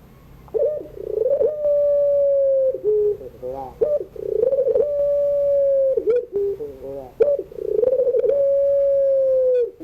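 Puter pelung dove cooing: repeated phrases of quick rolling coos, each ending in a long drawn-out coo held on one pitch that drops away at its end, three times.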